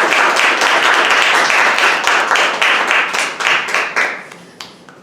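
Concert audience applauding, the applause thinning out about four seconds in and ending with a few scattered last claps.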